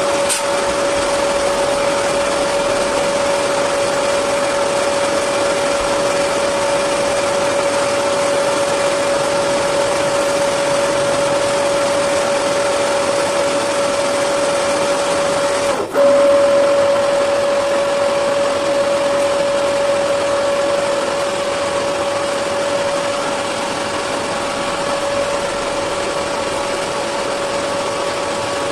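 A motor-driven machine running steadily, a constant whine over a noisy hum. A little past halfway it dips for an instant, then comes back louder and settles slightly lower toward the end.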